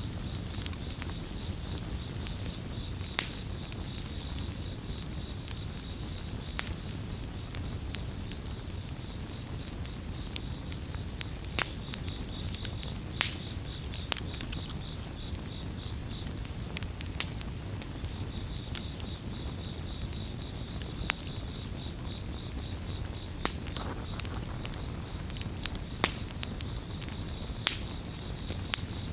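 Campfire crackling with sharp irregular pops over a low rumble of flame, while crickets chirp steadily in a high band. The cricket chorus drops out for a couple of seconds past the middle.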